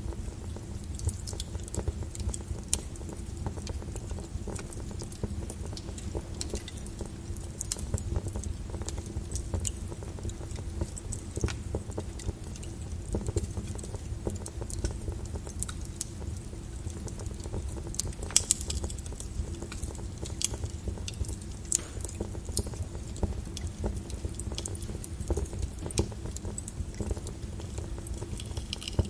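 Crackling wood fire mixed with steady rain: irregular sharp pops and snaps over a constant low hiss and rumble.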